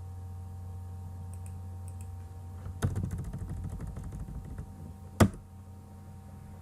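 Typing on a computer keyboard: a quick run of keystrokes, then one loud single keystroke, over a steady low hum.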